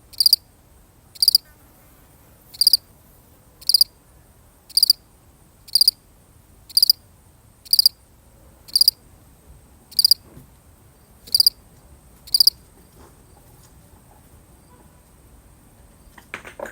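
A single field cricket chirping, with short, high chirps at an even pace of about one a second; the chirping stops about three-quarters of the way through. A brief rustle comes near the end.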